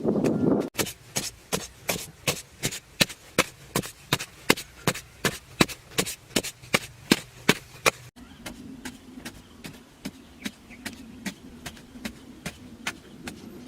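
Rapid, evenly spaced knocks or strikes, about three a second, lasting about seven seconds. Then, after an abrupt change about eight seconds in, a steady low hum continues with fainter, slower knocks.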